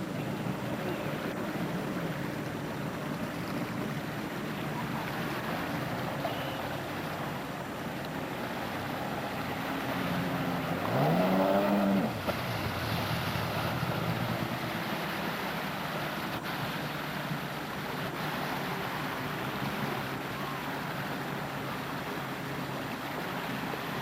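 Jet ski engine running over water, with a steady wash of wind and water noise. About eleven seconds in, the engine's pitch climbs sharply as it revs, the loudest moment, then cuts off suddenly a second later.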